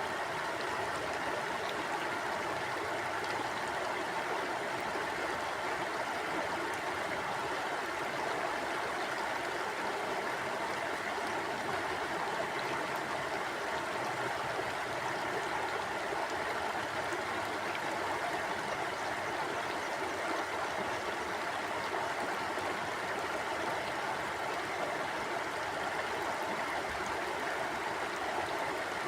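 Mountain stream flowing over rocks: a steady, even rush of water with no change in level.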